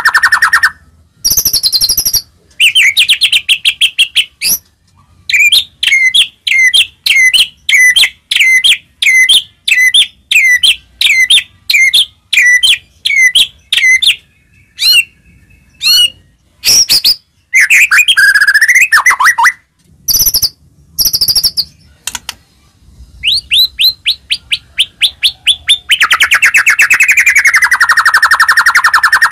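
White-rumped shama (murai batu) singing loudly in varied whistled phrases with short pauses between them: a long run of repeated notes at a little under two a second, then sweeping and gliding whistles and long warbling trills.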